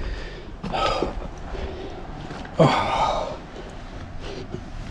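A man breathing out heavily: two breathy exhales or sighs, about two seconds apart.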